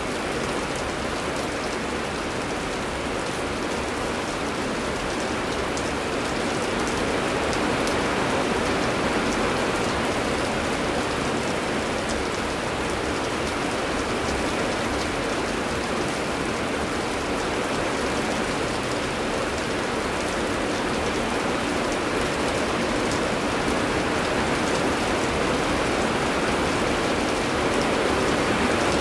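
Heavy rain falling steadily, an even dense hiss with fine drop patter throughout and no thunder.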